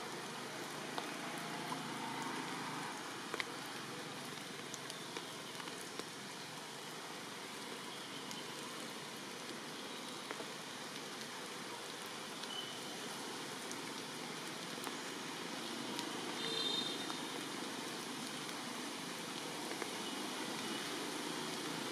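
Steady rain falling, with scattered sharp ticks of individual drops striking nearby surfaces.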